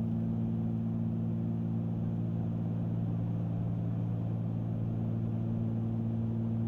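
Cabin drone of a twin-engine Cessna 310Q's two piston engines and propellers in steady cruise: an even, low hum made of several steady tones, with no change in pitch.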